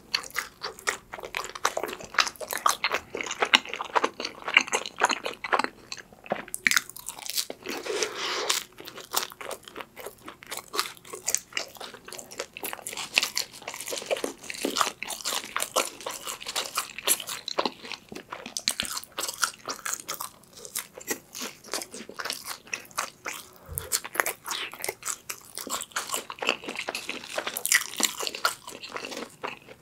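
Close-miked chewing and crunching of crusty pizza crust and crinkle-cut fries, a steady run of irregular crackly bites and mouth sounds.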